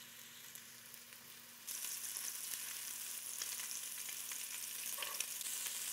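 Meatballs frying in hot oil in a Staub enameled cast-iron Dutch oven: a steady sizzle that jumps louder just under two seconds in.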